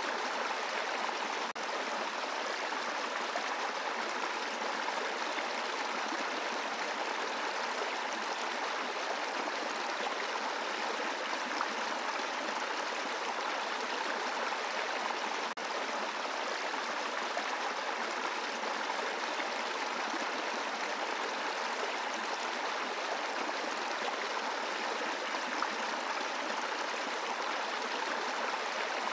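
Brook running over a bed of rocks: a steady rush of flowing, burbling water, with two momentary dips in level, one about a second and a half in and one about halfway through.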